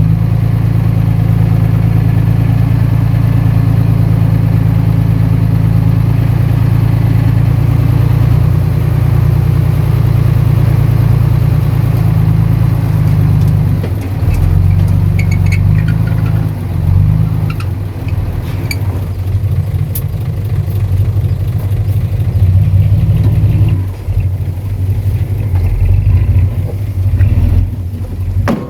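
Heavy diesel engine running steadily. About halfway through its note begins to rise and fall, with a few sharp metallic clanks.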